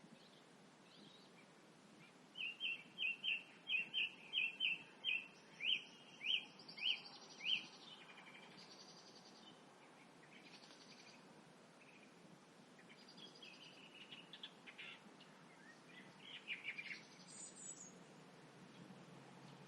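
Birdsong at dusk: one bird sings a quick run of about fourteen short, repeated notes, two or three a second, from about two seconds in to past the seventh second. After that come quieter, varied calls from several birds over a faint steady low hum.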